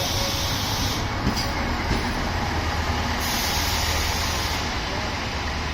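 The Sennen Monogatari diesel railcar train running slowly along the platform, a steady low rumble with two spells of hissing.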